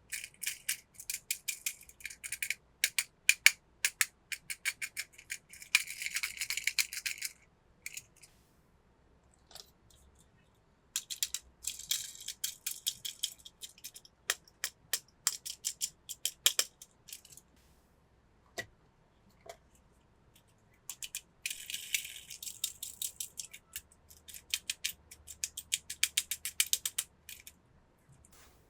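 Hands working plastic toy packaging: quick crackling and clicking in three bursts of several seconds each, with quiet pauses between.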